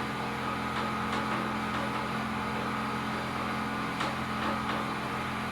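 A steady machine-like hum with a constant low drone, and a few faint clicks about a second in and again near four seconds.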